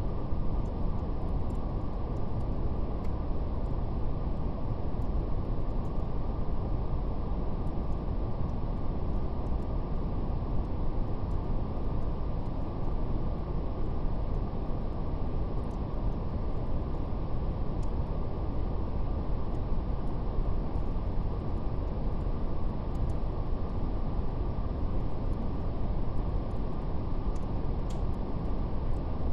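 Steady, deep brown noise, a soft low rumble-like hiss with no variation, with a faint, sparse crackle of a fire ticking irregularly on top.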